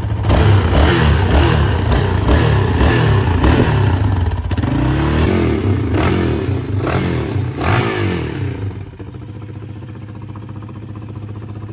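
Yamaha Raptor 700R's single-cylinder four-stroke engine being revved in a series of throttle blips, pitch rising and falling with each, through a stock exhaust with its baffle removed. About nine seconds in it drops back to a steady idle.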